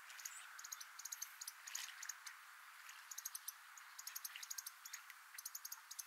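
Small birds calling: short, very high-pitched chips in quick clusters, over a faint steady hiss.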